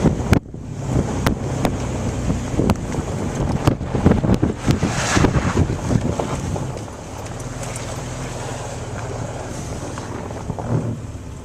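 Vehicle driving off-road through deep snow, its engine running under rough rumbling, wind buffeting on the microphone and scattered knocks. About seven seconds in, the rumbling eases and the engine settles to a steadier hum.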